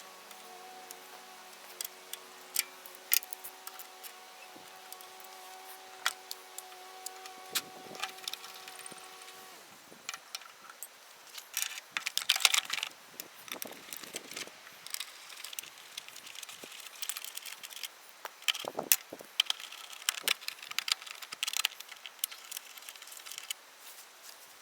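Scattered metallic clicks, clinks and rattles of small parts and hand tools being handled while a mower is reassembled, busiest about halfway through. A faint steady hum stops about ten seconds in.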